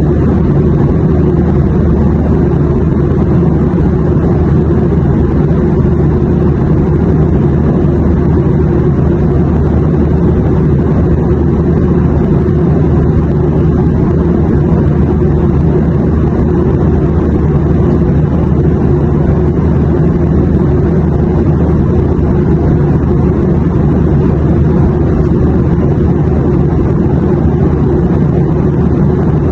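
Airliner cabin noise in flight: a steady, deep rumble with a faint even hum and no changes.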